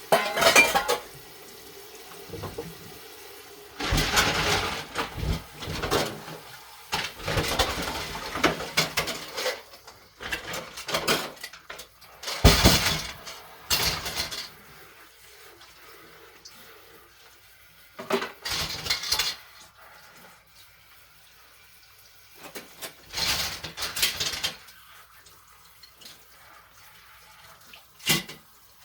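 Dishes being washed by hand at a kitchen sink: repeated bursts of running tap water and clattering dishes and cutlery, with quieter pauses between.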